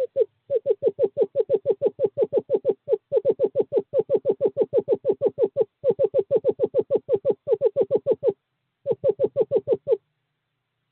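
Male screech owl giving its long, even trill of rapid hooting notes, about eight a second, broken by brief pauses into several runs: a courtship call to a female at the nest box.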